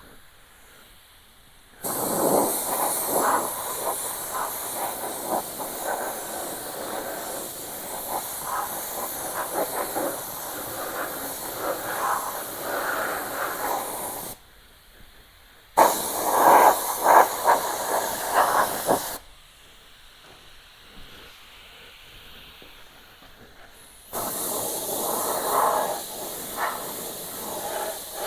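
Air spray gun hissing as it sprays primer at low pressure, in three long passes: one of about twelve seconds, a shorter one around the middle, and another starting near the end.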